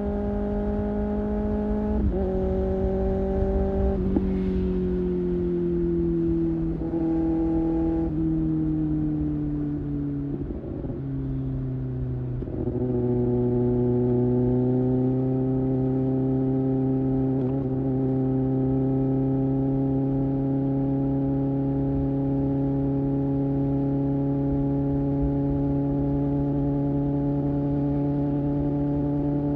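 Kawasaki ZX-6R's inline-four engine under way on the highway: its note falls over the first ten seconds or so with a few short breaks, then picks up about twelve seconds in and settles into a steady cruising note, with low wind rush underneath.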